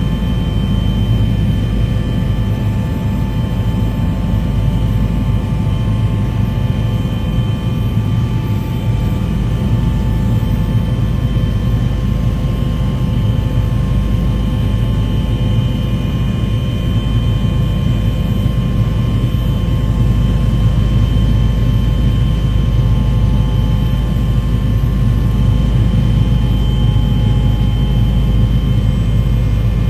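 Aircraft engine noise: a steady low rumble with several constant whining tones above it, unchanging throughout.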